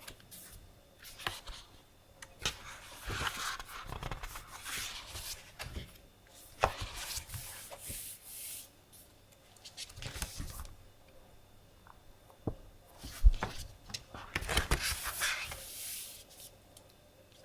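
Sheets of decorative paper being handled and shuffled, in irregular spells of rustling with light taps and clicks, and one sharper knock past the middle.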